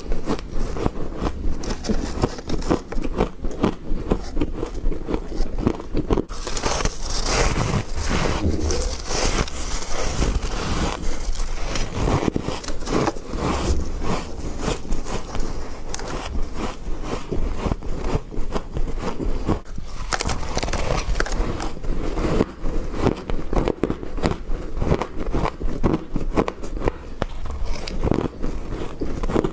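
Teeth biting into and crunching frost: a dense, continuous run of crisp crunches and crackles.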